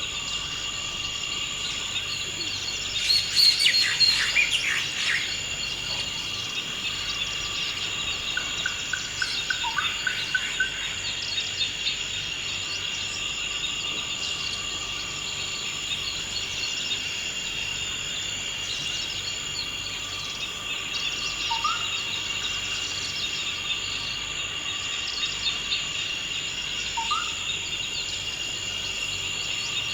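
Forest ambience: a steady high-pitched insect chorus drones throughout, with birds calling over it. A loud flurry of chirps comes a few seconds in, a quick run of repeated short notes about ten seconds in, and a short rising whistle twice in the second half.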